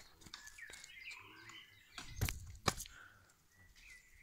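Small birds chirping, with two sharp thumps a little past halfway, about half a second apart.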